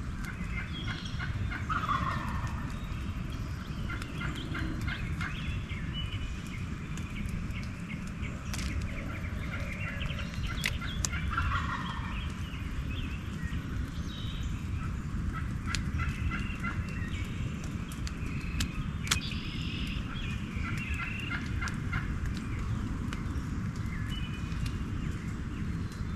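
Eastern wild turkeys gobbling from the roost, one rattling gobble after another, over a steady low rumble.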